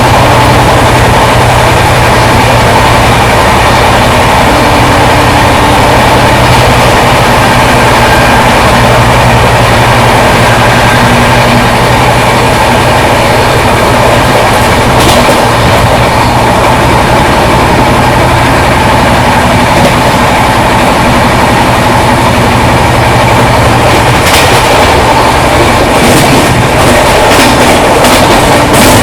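Chennai–Shalimar Superfast Express running on the track: a loud, steady rumble of the moving train. Sharp clicks from the wheels crossing rail joints come once about halfway through and several times near the end.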